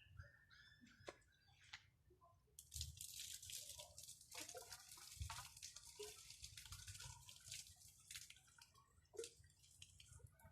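Faint water trickling and spattering, with scattered small clicks and drips. The hiss starts about three seconds in and fades out over the last few seconds.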